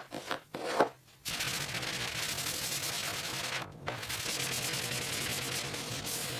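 Body filler being worked on the armored truck's steel panel: a few short scraping strokes, then from about a second in a steady rasping hiss that breaks off briefly near the middle.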